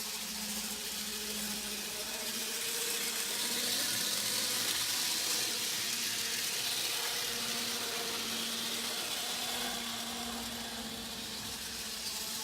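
N-scale model train running on its track: a steady hiss of wheels on rail with a faint electric motor hum, getting a little louder for a few seconds midway.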